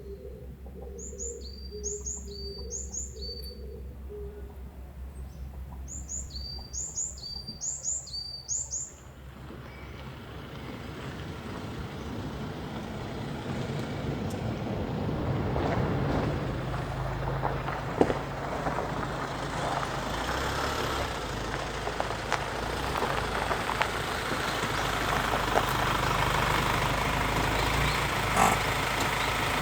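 A small bird chirps in two quick runs of high calls early on. From about ten seconds in, a steady rushing noise builds and then holds.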